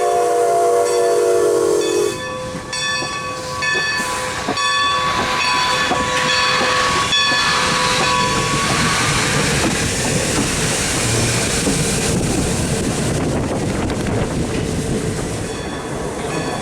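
Steam whistle of ex-Great Western 2-10-0 No. 90 sounding a chord of several notes that cuts off about two seconds in, followed by the noise of the steam train running past.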